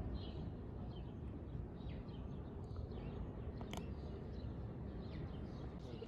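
Small birds chirping here and there over a steady low outdoor rumble, with one sharp click about three and a half seconds in.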